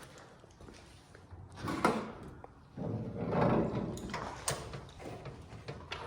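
Car hood being opened and handled: a couple of scraping, rustling stretches and a few sharp metallic clicks of the latch and hood.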